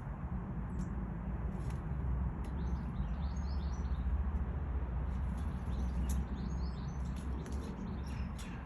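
Small garden birds chirping in two short clusters of quick high notes, over a steady low rumble, with a few sharp ticks scattered through.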